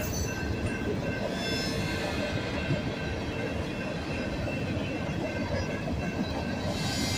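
Freight train of hopper cars rolling past: a steady rumble of wheels on rails, with a few faint steady high tones held over it.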